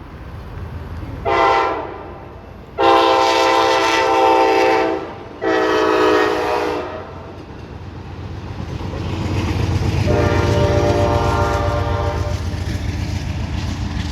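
Amtrak passenger train horns: one short blast, then two long blasts of a multi-chime horn. Then the rumble of a passing train builds, with a softer horn sounding over it.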